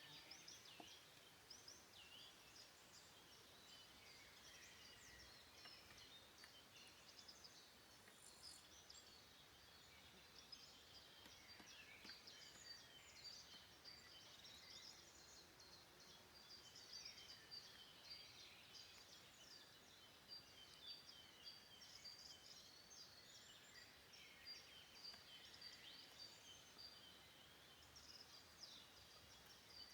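Faint woodland birdsong: many small birds chirping and calling over one another in short, high notes, with no break.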